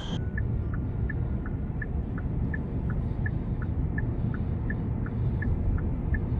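A steady low rumble with a regular high beeping over it, alternating between two pitches at about three beeps a second.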